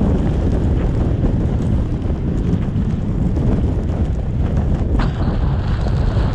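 Steady low rumble of wind and road noise from a car driving through a snowstorm, with a brief click about five seconds in.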